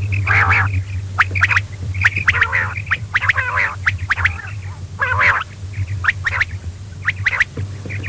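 Quail calling over and over: quick sharp chirps and short chattering runs, over a steady low hum.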